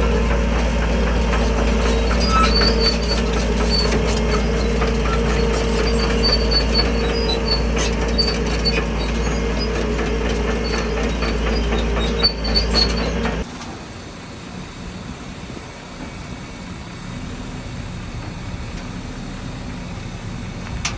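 Tracked bulldozer working: a diesel engine running steadily under load while the steel tracks clank and give off intermittent high squeals. About two-thirds of the way through the sound cuts abruptly to a quieter, lower machinery rumble.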